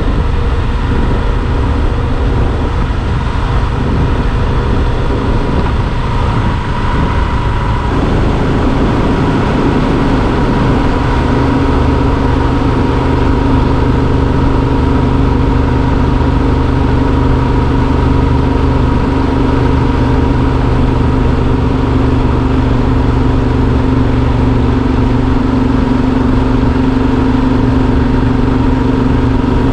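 Yamaha Super Ténéré XT1200's parallel-twin engine running steadily on the move; its note changes about eight seconds in, then holds steady.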